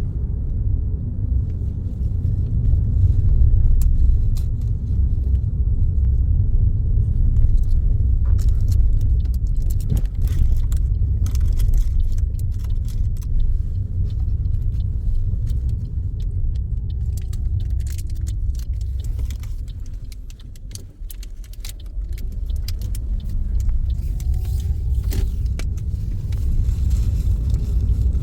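Road and engine rumble inside a moving car's cabin, with scattered light rattling clicks. The rumble drops for a moment about two-thirds of the way in, as the car slows, then picks up again.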